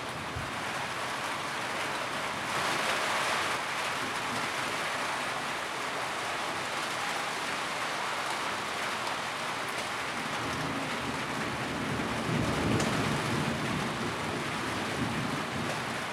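Steady rain drumming on a tin roof, heavier for a second about three seconds in. Later a low rumble swells and fades under it.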